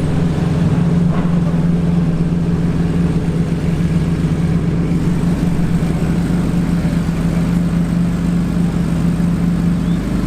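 Car engine idling steadily at a constant pitch, close by.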